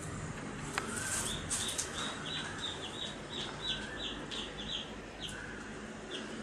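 Baby chicks peeping: a quick run of short, high, slightly falling peeps for about three and a half seconds, then scattered single peeps. A single sharp click comes just before the run.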